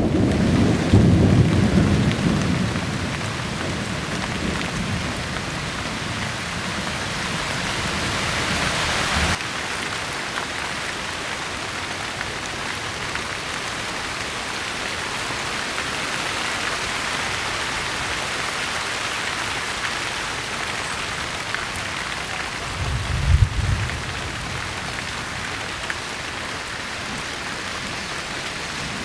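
Steady rain falling, a continuous hiss, with low thunder rumbling in the first two seconds or so and again in a brief, louder rumble about three-quarters of the way through.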